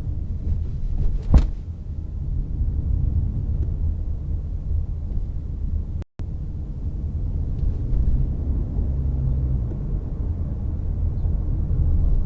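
Toyota C-HR 1.8 Hybrid on the move: a steady low road and tyre rumble. A single sharp knock comes about a second and a half in, and the sound cuts out for a moment about halfway through.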